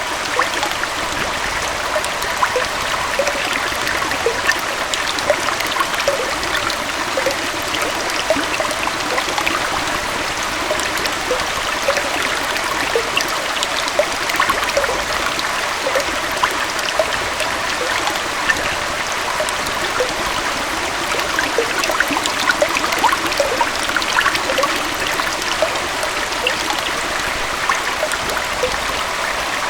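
Small waterfall splashing and a stream flowing: a steady rush of water with many small trickling splashes.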